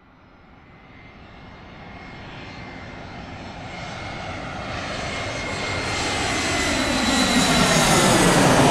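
Airplane approaching: engine noise fades in from silence and grows steadily louder toward a peak near the end, with a faint high whine that drifts slightly lower in pitch.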